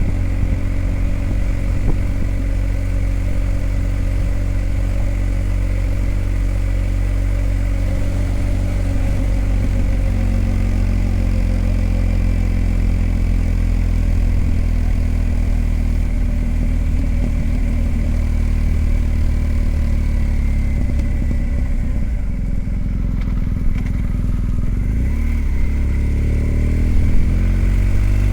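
BMW R1250 GS Adventure's boxer-twin engine running while the motorcycle is ridden, the engine note steady for most of the time, then dipping and climbing again in the last few seconds.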